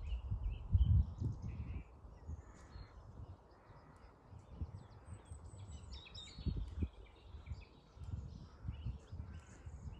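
Several birds chirping and calling, with gusts of wind buffeting the microphone in low rumbles, strongest in the first two seconds and again near the end.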